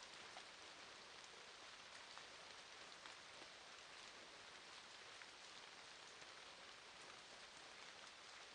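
Faint, steady rain: an even hiss of falling rain with scattered individual drop ticks.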